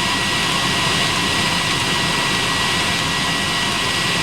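Eberspacher D1L diesel heater running with its combustion-air fan at full speed: a steady roar with a thin high whine. It is under-fuelled and close to flaming out; the owner thinks the fuel pump is probably not the right size.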